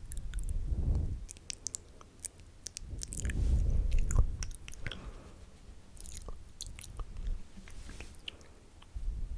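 Close-miked wet mouth sounds: sticky spit clicks and smacks, with deep muffled swells about a second in and again around three to four seconds in.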